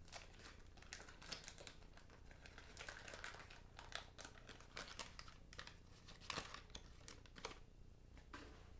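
Faint crinkling of a trading-card wax pack wrapper, with the light clicks and rustles of card stock being handled, as a fresh pack is opened.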